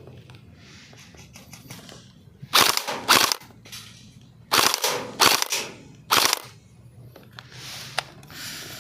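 Airsoft rifle fire: five short bursts, the first four in pairs about half a second apart, starting about two and a half seconds in, then quieter for the last couple of seconds.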